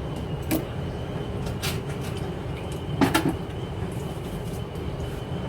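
A few light knocks and clunks as a disconnected drain pipe is handled, the loudest a short cluster a little after the midpoint, over a steady low rumble.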